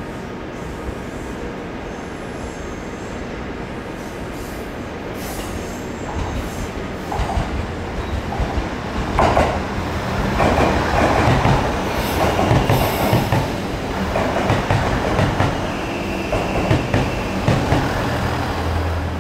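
JR Central HC85 hybrid train pulling into a station platform. The rumble of its wheels on the rails grows louder from about six seconds in, with a short high wheel squeal around twelve seconds.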